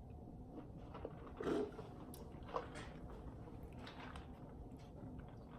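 Quiet room tone with a few faint, brief rustles and small clicks; the loudest is a short rustle about a second and a half in.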